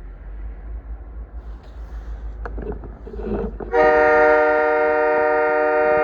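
Diesel locomotive air horn sounding one long, loud chord of several notes at once, starting about two-thirds of the way in, over a low rumble.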